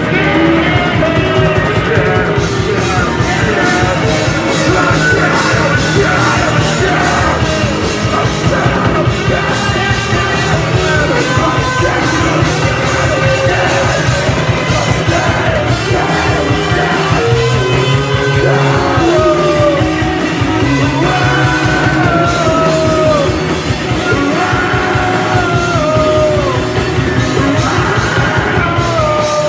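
Loud live punk-rock band playing, with a singer's sliding vocal line over the guitars and drums.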